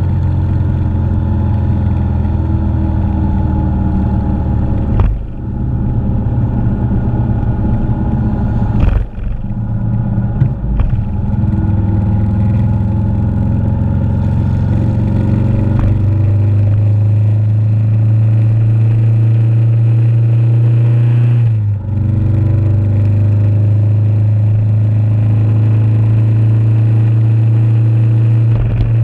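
Motorcycle engine running at a steady cruising note while riding, with brief dips in the engine sound about 5, 9 and 22 seconds in and some clatter around 10 seconds.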